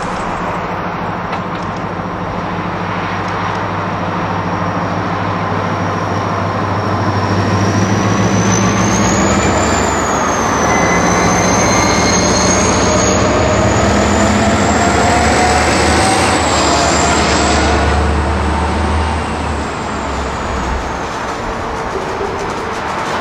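A train passing close by: steady rumble with a low drone and a thin high whine that climbs slowly in pitch, the sound building to its loudest in the middle of the pass and easing off near the end.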